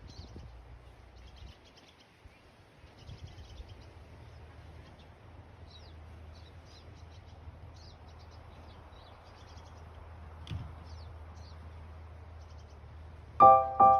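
Small songbirds chirping in short, high twittering phrases over a steady low hum. Just before the end, piano music comes in, much louder than the birds.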